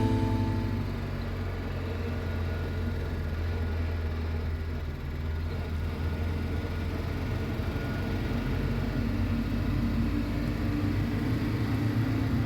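Vehicle engine running steadily with a low rumble while driving, its note growing a little stronger near the end. The tail of background music fades out in the first second.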